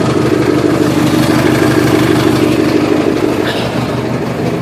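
Cub Cadet garden tractor engine running steadily while the tractor is held tilted up on its side, louder for a couple of seconds in the middle and easing a little near the end.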